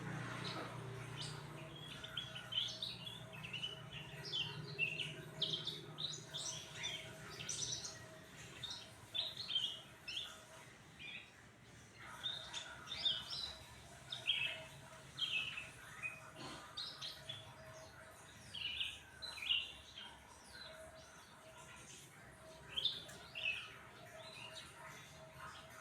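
Cucak ranting songbird singing vigorously in repeated phrases of quick, high sliding chirps, with short pauses between phrases: the bird in full song after being fed crickets and sunned.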